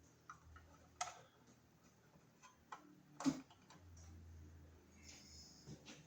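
Faint, scattered clicks and taps of hands working on electrical wiring, with the loudest tap about three seconds in.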